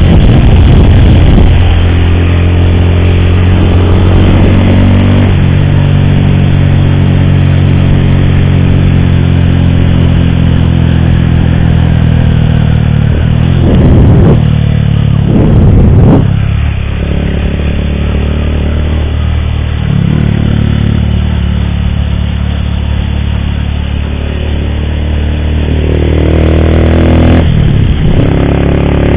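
Motorcycle engine running on the road, with the noise of a faulty cam chain (timing chain) that the rider calls unbearable. The engine note eases off around the middle and rises again near the end as the bike speeds up.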